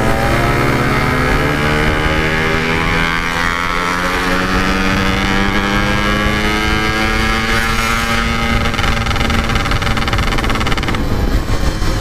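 Yamaha RX-King 135cc single-cylinder two-stroke engine pulling under load through its aftermarket exhaust as the bike is ridden. The engine note rises slowly and steadily for about eight seconds, then changes near the end as the revs shift.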